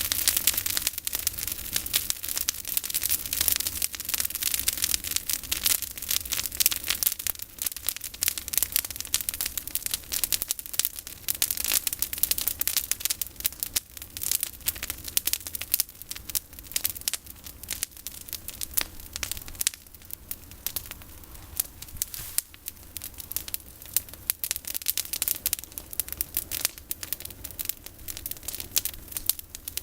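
Campfire of pruned olive branches crackling, a dense, continuous run of sharp snaps.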